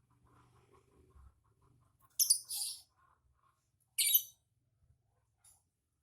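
Lovebird giving short, shrill, high-pitched calls: two in quick succession about two seconds in and a third about four seconds in.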